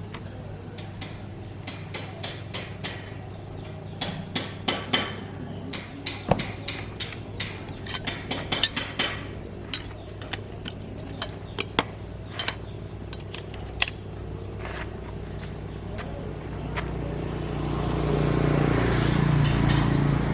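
Repeated sharp metallic taps and clinks of hand tools striking and handling metal parts, irregular and sometimes in quick runs. Over the last few seconds a steady mechanical running sound swells up and becomes the loudest thing.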